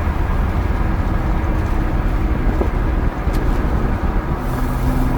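BMW E36's M50B25 inline-six running through a full aftermarket exhaust while driving, a steady deep drone.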